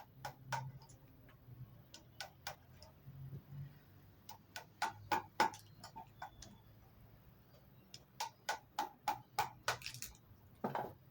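A mallet driving a wood chisel into timber in sharp knocks. There are scattered single and paired blows, then a cluster, and near the end a fast run of about eight strikes, some four a second. The chisel is chopping out a stubborn waste piece.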